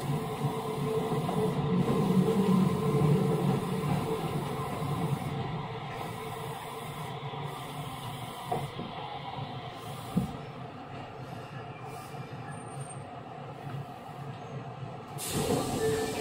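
Running sound inside an Osaka Metro 66 series equipment-renewed electric train: steady motor and wheel noise on the rails, louder for the first few seconds and then quieter. A sudden louder rush of noise comes near the end.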